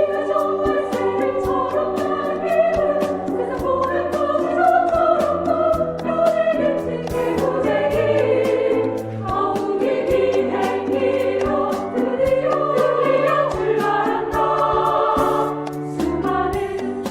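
Women's choir singing a children's song over an accompaniment with a steady beat.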